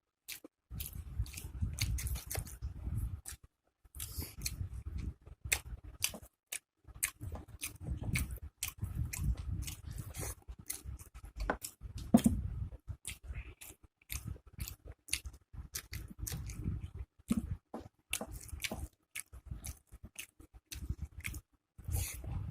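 A person chewing food close to the microphone, with many sharp wet clicks and crunches, in runs of a few seconds broken by short pauses.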